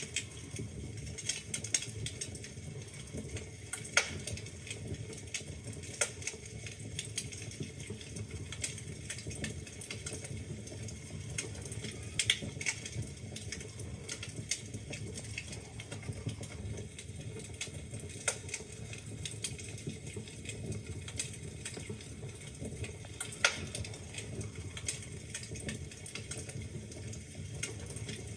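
Wood fire burning in a fireplace: a steady low rush of flames with frequent irregular crackles and snaps, and a few sharper pops, the loudest about 4 and 23 seconds in.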